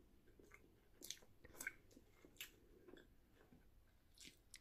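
Faint chewing and wet mouth smacks of a person eating a Big Mac, a handful of soft, irregular clicks.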